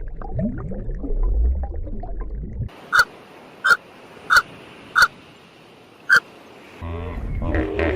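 Animal calls from separate clips: a low rumbling sound with short pitch glides, then five short, sharp calls evenly spaced about two-thirds of a second apart, then a louder low grunting sound starting near the end.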